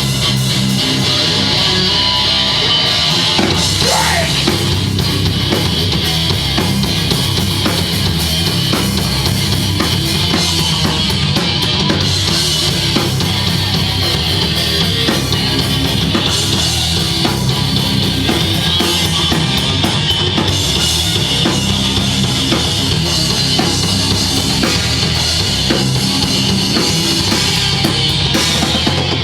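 Loud live heavy rock band playing, the drum kit prominent with bass drum and snare driving the music.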